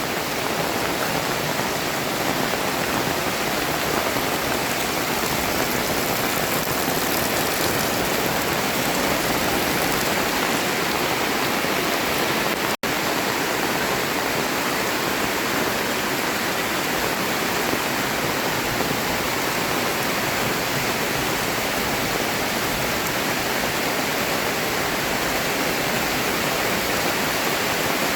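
Heavy tropical rain pouring down steadily, a dense even hiss of downpour. The sound cuts out for a split second about thirteen seconds in.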